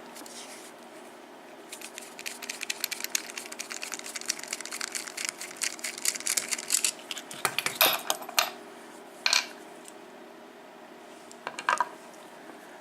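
Light metallic clicking and clinking from a brass padlock and a Phillips screwdriver being handled while the lock is taken apart. A run of rapid small clicks is followed by a few separate sharper clinks of small metal parts.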